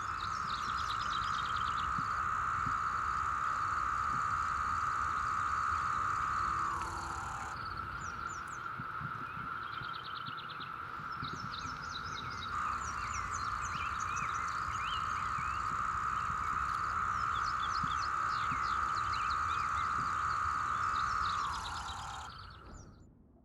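Chorus of 17-year periodical cicadas (Magicicada septendecim): a steady buzzing drone that drops in pitch at its end, about six seconds in and again near the end, with birds chirping over it. It fades out just before the end.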